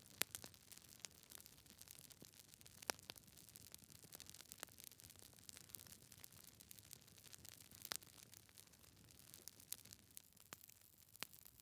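Wood fire crackling in a fireplace: faint, irregular sharp pops and snaps, roughly one every second or two, over a soft steady hiss.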